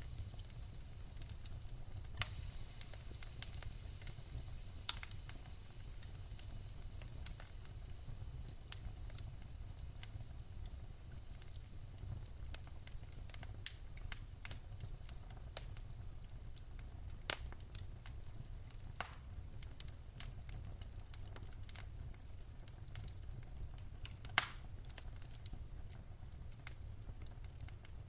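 Wood fire burning in a fireplace: a steady low rumble and soft hiss with irregular sharp crackles and pops from the logs, a few of them louder, one of the loudest about three-quarters of the way through.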